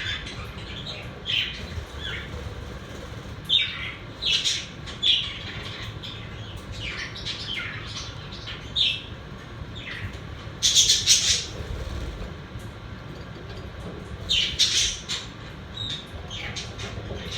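Pet budgerigars calling in short, scattered chirps, with louder bursts of chatter about eleven seconds in and again near fifteen seconds, over a steady low hum.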